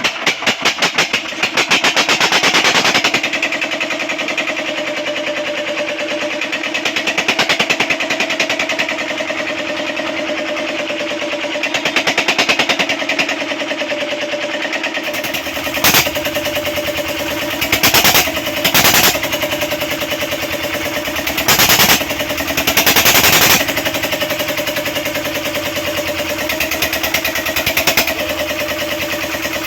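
10 hp diesel engine running steadily on load test, with a fast even firing beat throughout. Several louder bursts of noise come in the second half.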